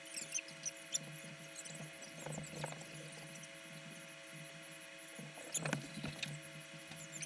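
Steady low electrical-sounding hum with faint scattered clicks and a few soft knocks.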